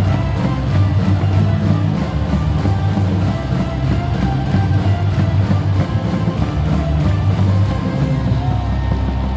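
Loud rock music with drums and guitar played over a baseball stadium's public address system, with a steady pulsing bass beat.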